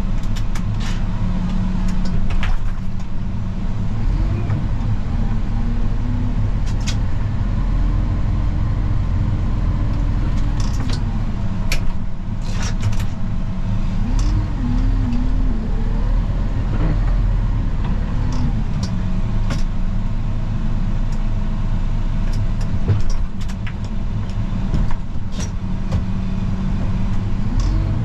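A snow-plow vehicle's engine running steadily, its revs rising and falling every few seconds, with scattered short clicks and knocks.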